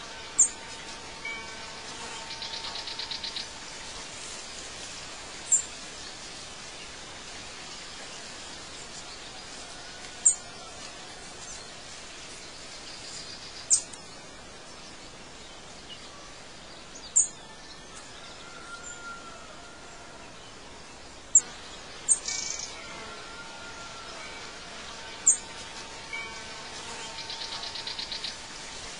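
Birds chirping: a sharp high chirp every three to five seconds, and twice a fast buzzy trill that grows louder, with faint whistled notes over a steady hiss.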